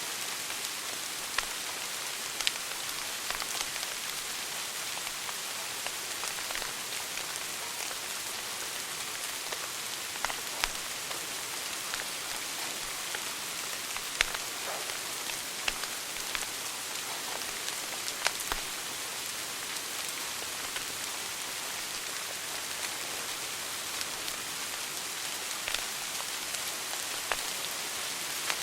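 Wood fire crackling in a fireplace: a steady hiss with sharp pops scattered every few seconds.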